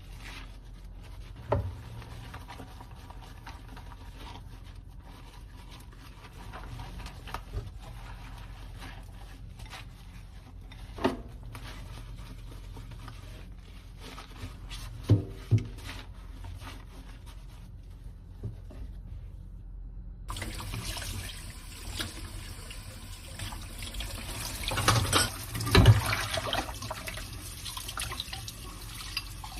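Dishes being washed at a kitchen sink: scattered clinks and knocks of crockery. About two-thirds of the way in, the tap is turned on and water runs steadily, with a cluster of louder clatters near the end.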